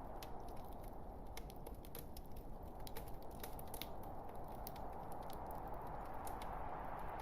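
Log fire burning in a fireplace: a steady low rush of flame with frequent, irregular sharp crackles and pops, several a second.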